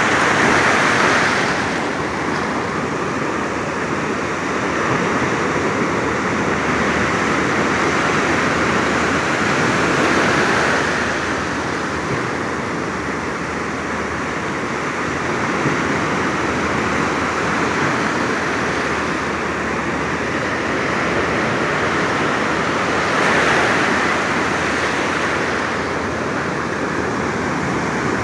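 Surf from a rough, stormy sea: a steady wash of breaking waves that swells louder three times as bigger waves come in.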